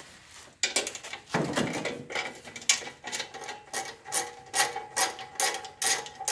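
Hand ratchet wrench being worked on a bolt: a clatter of tool handling, then steady back-and-forth strokes of clicking, about two or three a second.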